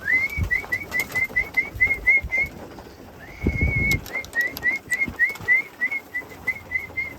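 A person whistling a pigeon-calling signal to bring loft pigeons home: a rising note followed by a quick string of short chirped notes, about five a second, in two runs with a pause of about a second between them. A brief low thump sounds near the middle.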